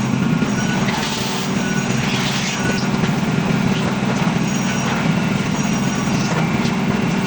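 Heavy engine-driven machinery at a concrete pour, running steadily with a constant low drone and a rattling, clattering noise over it.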